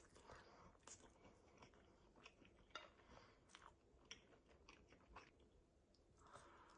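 A person chewing and biting food close to the microphone: faint, irregular wet mouth clicks and small crunches.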